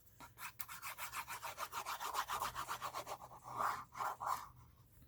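Quick back-and-forth rubbing on paper, about ten short scratchy strokes a second for around three seconds, then a few slower swipes: paper being rubbed down onto a cardstock panel.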